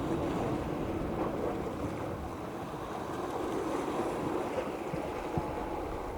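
Steady rushing noise of sea surf and wind buffeting the microphone, with one short knock about five seconds in.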